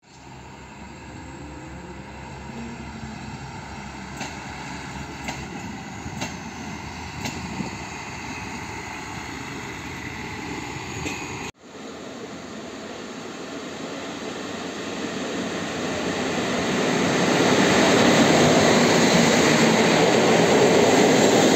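Trains at a railway station. First a low hum with a few sharp clicks as a train moves slowly through the station yard. Then, about halfway through, a passenger train of coaches runs past a platform: its rolling, rushing noise grows louder for several seconds and then stays loud.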